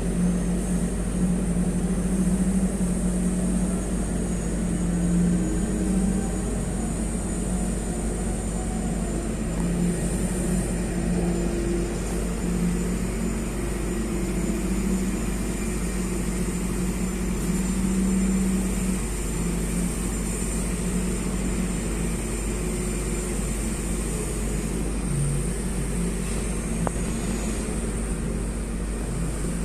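Heavy off-road dump truck's diesel engine running under load, its note swelling and easing as it works along the slippery track.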